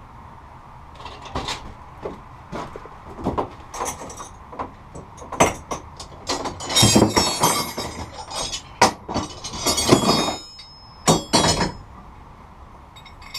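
Metal hand tools clinking, knocking and scraping in a run of separate strikes, with two longer grating bursts near the middle.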